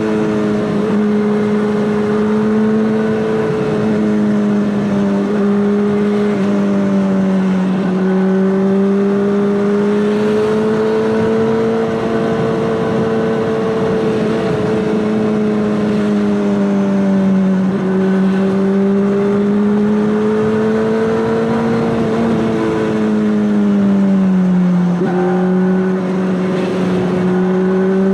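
Honda CBR600RR's inline-four engine through an Akrapovic exhaust, running at a fairly steady, fairly high engine speed. The pitch drifts gently up and down and dips briefly near the end.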